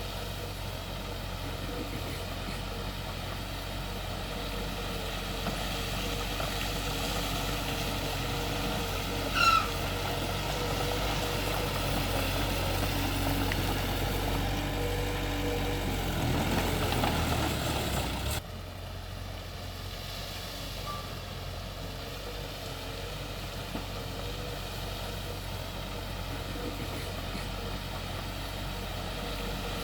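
Heavy diesel earthmoving machinery running steadily, with a brief high squeal about a third of the way through. The engine sound swells, then drops suddenly about two thirds through.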